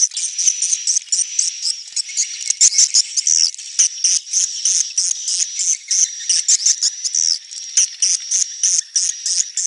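Swiftlet calls: a dense, unbroken stream of short, rapid, high-pitched chirps and twitters, with a thin steady high tone underneath, as in a 'neutral' swiftlet sound track.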